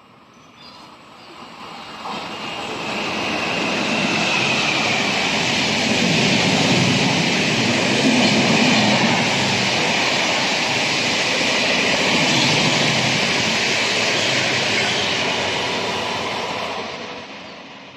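Express train passing at speed: the noise of wheels and carriages on the rails builds over the first few seconds, stays loud with a steady high whine, then falls away near the end as the train goes by.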